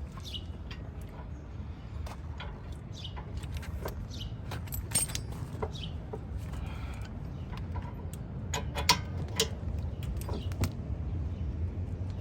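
Irregular metallic clicks and clinks of hand tools on the brake caliper bracket's 17 mm bolts as they are turned in by hand with a breaker bar rather than an impact gun. A steady low rumble runs underneath, with a few short high chirps.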